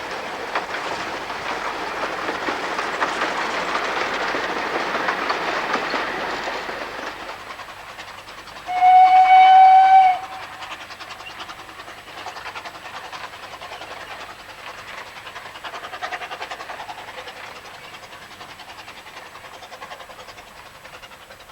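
Narrow-gauge Hunslet quarry tank steam locomotive running with its train: a loud rush of exhaust and wheel noise that fades after about seven seconds. Its steam whistle gives one blast of just over a second about nine seconds in, and then the train runs on more quietly.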